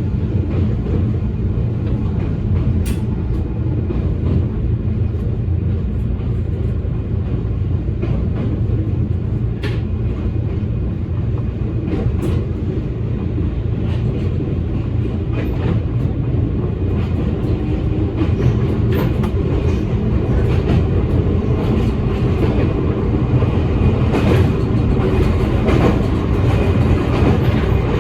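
Electric commuter train of the Toyama Chiho Railway running along the track: a steady low rumble of wheels and running gear with a few sharp clicks over rail joints, growing louder near the end.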